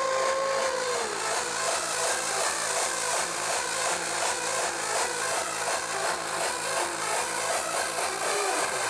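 Loud electronic dance music from a festival sound system, heard from the crowd, with a steady driving beat; a held synth tone slides down in pitch in the first second.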